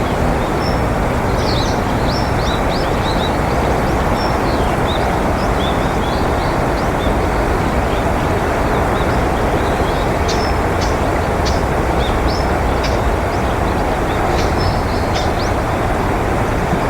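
A steady, loud rushing noise with no rhythm or changes, with many short, high chirps and call notes of small birds scattered over it.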